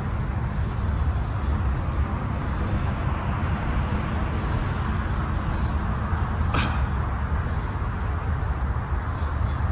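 Freight cars of a Union Pacific mixed freight train rolling past on the rails, a steady low rumble, with one short sharp sound about six and a half seconds in.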